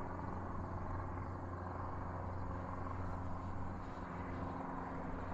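Electric motor and propeller of an E-Flite Air Tractor RC plane droning steadily in level flight, with an even low hum.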